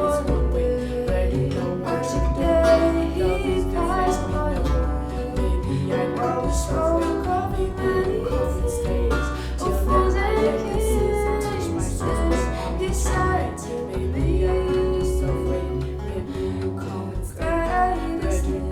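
A woman's voice singing over an archlute, plucked notes ringing with a deep bass line beneath.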